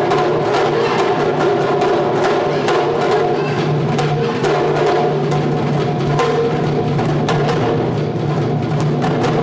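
Japanese taiko drum ensemble (wadaiko) playing a fast, dense, unbroken rhythm of many strikes a second, with sharp clacking hits over the deep ringing of the drums.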